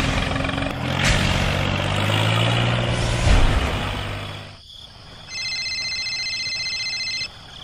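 A rumbling engine with a low hum rising in pitch and two knocks, cut off suddenly after about four and a half seconds; then a steady electronic ringing tone from a mobile phone sounds for about two seconds.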